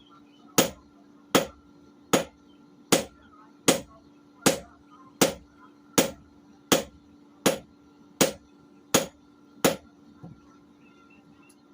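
Hammer blows on a blade being forged on an anvil: about thirteen evenly spaced strikes, a little more than one a second, that stop near the end.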